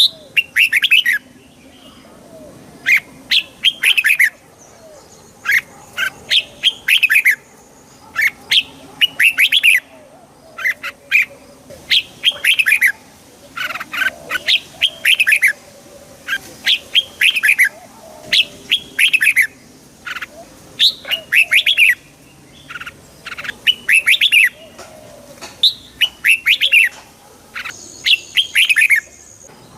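Red-whiskered bulbul singing: short, bright phrases of quick falling notes, repeated every second or two.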